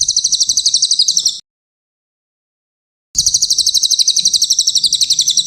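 Cililin songbird singing a rapid, high trill of repeated notes, about ten a second. It comes in two phrases: one about a second and a half long at the start, then another beginning about three seconds in.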